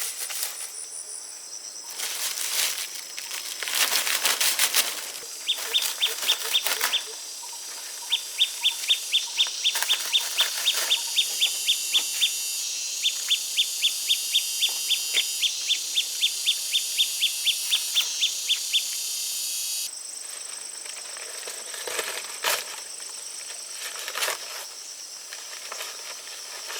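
Runs of sharp, high chirps at about four a second, in several bursts of a few seconds each, over a steady high-pitched buzz that stops about two-thirds of the way through; rustling and handling clicks come before and after.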